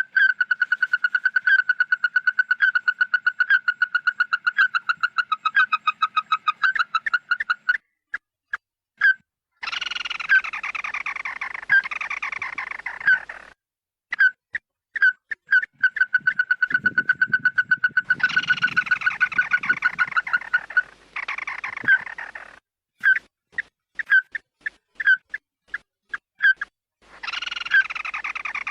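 Looped lure recording of the bird called "chim mắt đỏ" (red-eyed bird). It gives a fast run of clear piping notes, about five a second, that alternates with harsh, scratchy, falling calls lasting a few seconds each. A low rumble sits under the calls near the middle.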